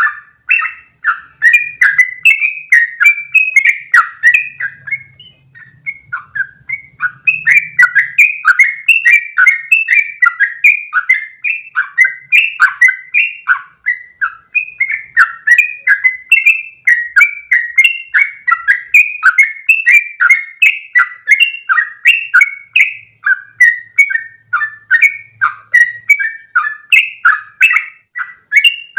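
Yellow-vented bulbul (trucukan) singing a long, unbroken run of quick chirping notes, about two or three a second, with a short lull about five seconds in.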